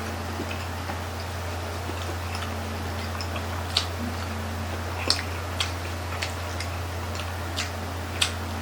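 Close-up chewing of grilled chicken intestine (isaw), with scattered sharp mouth clicks and smacks, mostly in the second half, over a steady low hum.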